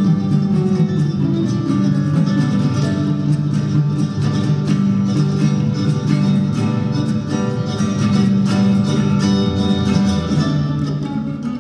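A string band playing, with plucked guitar prominent, in a bluegrass or country style.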